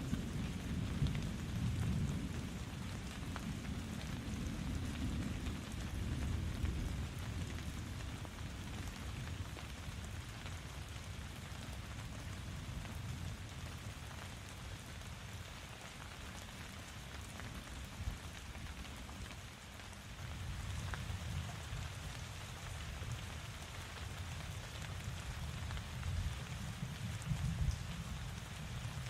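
Steady rain falling, with a low rumble underneath that is heaviest in the first few seconds and again near the end.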